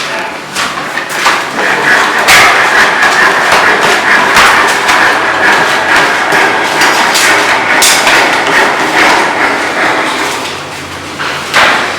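Repeated hammer blows at irregular intervals, with a steady high whine of machinery underneath from about two seconds in until shortly before the end.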